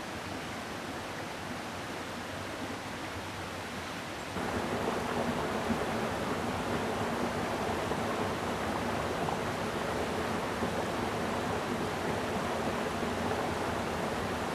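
Mountain stream running: a steady rush of water that suddenly gets louder about four seconds in.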